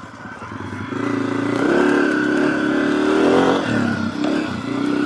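Honda CRF250F dirt bike's single-cylinder four-stroke engine accelerating under load. The revs climb, drop briefly near the middle as it shifts up, then climb again.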